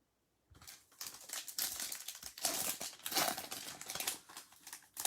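Foil trading-card pack wrapper crinkling as it is torn open and handled. It starts about half a second in.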